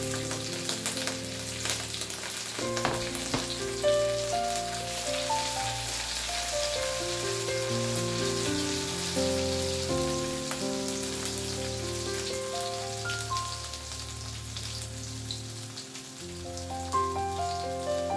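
Chopped garlic and chili peppers sizzling in hot oil in a wok, with a steady crackling hiss as they are stirred, over background music with held notes.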